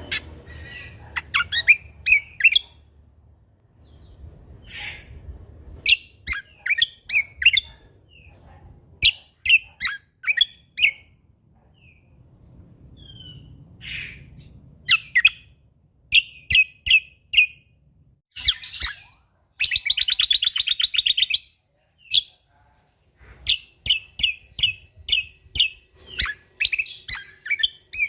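A cucak kombo (kecial kombo) songbird from Lombok singing in loud, bursting phrases of quick high chirps and whistles, with a buzzy rattling trill about twenty seconds in.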